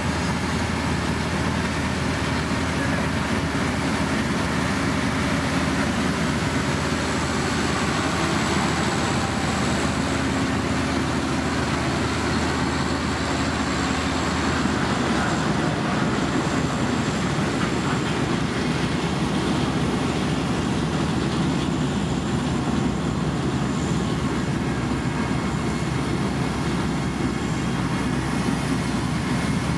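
A heavy motor grader's diesel engine running steadily, with dense machinery noise that doesn't let up.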